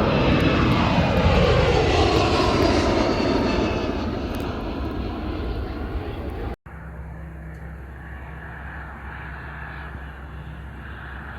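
A fixed-wing aircraft passing close by, loud, with the pitch of its engine tones falling as it goes past. After a sudden cut about six and a half seconds in, a quieter steady aircraft engine hum.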